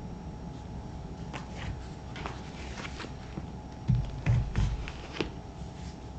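Pair of black leather moc-toe work boots being handled on a surface: scattered light taps and rustles, then a few low thumps about four seconds in, as the boots are set down and moved.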